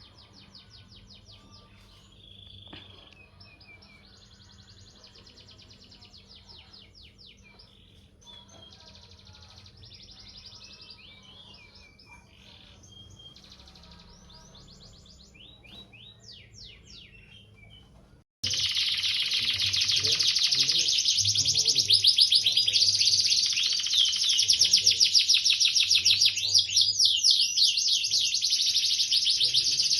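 Songbird calls: faint chirps and short rapid trills, then about 18 seconds in an abrupt switch to a much louder, continuous fast chattering trill.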